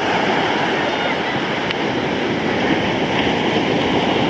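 Steady rush of ocean surf, an even, unbroken noise without distinct wave crashes.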